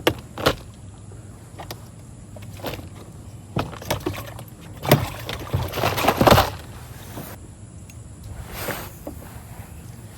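Scattered knocks and bumps on a plastic sit-on-top kayak, with a cluster of louder thumps and rattles about five to six and a half seconds in, as a caught fish and gear are handled aboard.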